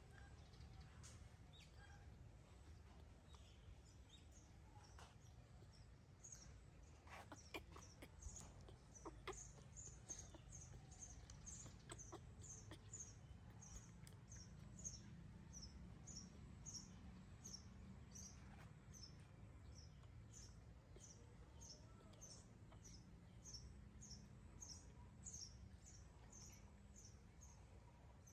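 Faint small bird chirping over and over, short high notes at about three every two seconds, starting some six seconds in. A few soft clicks come near the start of the chirping.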